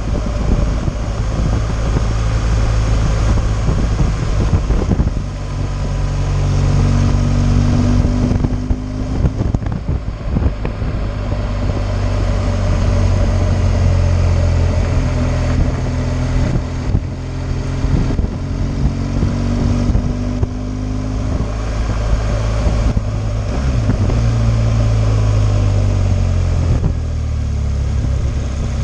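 BMW R 1200 GS water-cooled boxer twin running under way, its engine note rising and falling several times with the throttle, under heavy wind rush on the microphone.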